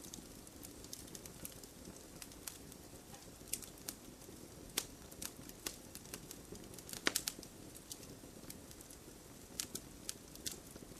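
Wood campfire crackling: irregular sharp pops and snaps over a low, steady rushing hiss, with a quick cluster of louder pops about seven seconds in.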